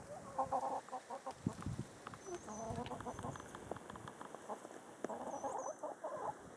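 Hens of a small backyard flock (Rhode Island Reds and Barred Plymouth Rocks) clucking in three short bursts, with light scattered clicks between the calls.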